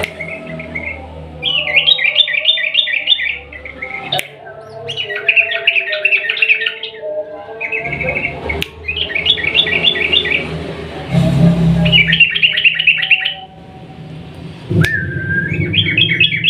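Yellow-vented bulbul (trucukan) singing its long rapid bubbling song, about five quick-note phrases of one to two seconds each with short pauses between.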